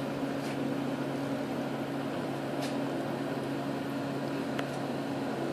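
A steady low mechanical hum over an even background hiss, with a few faint ticks.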